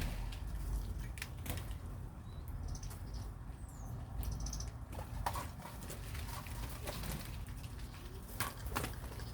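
Small birds giving a few short, high chirps and a brief falling whistle about three seconds in, among scattered sharp clicks and rustles.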